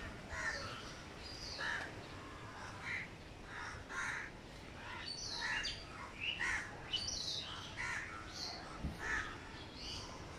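Birds calling outdoors: many short calls scattered throughout, over a faint background hiss.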